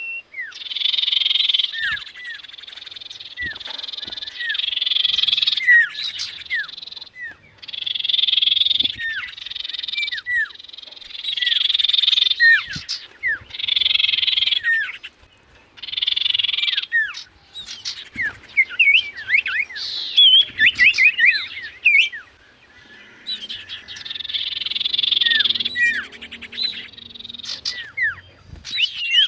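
Common iora (cipoh) singing: a series of buzzy, trilling phrases about a second long with short gaps between them, mixed with short down-slurred whistles, and a run of quick chirps about twenty seconds in.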